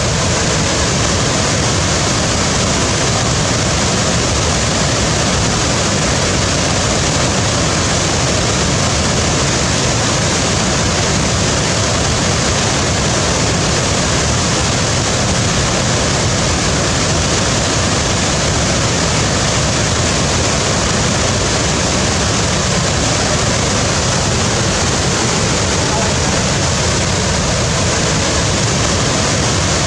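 Waterfall: a steady, continuous rush of falling water with no breaks or changes.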